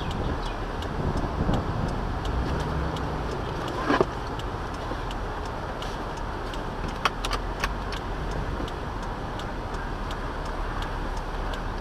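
A car driving, with a steady mix of road and engine noise. A fast, regular ticking runs through it, and there are a couple of sharp knocks about four and seven seconds in.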